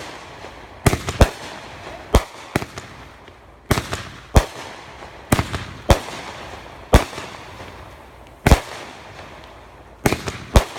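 Consumer fireworks going off: about a dozen sharp, loud bangs at uneven intervals, each with a brief crackling tail, with a quick cluster of three near the end.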